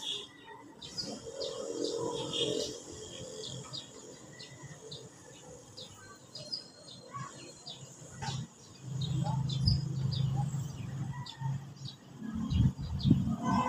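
Small birds chirping in many short, high notes. A low, steady rumble comes in after about nine seconds and is louder than the chirps.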